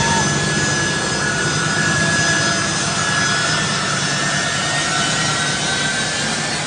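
Jet engines of a military transport aircraft running steadily, heard from inside the cabin. A constant wash of noise carries several high whining tones over a low hum.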